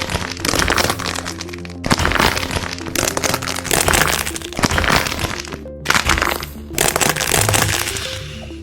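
Hardened wax coating on squishy toys cracking, a dense run of fine crackles, over background music. The crackling breaks off suddenly twice, about two seconds in and about six seconds in.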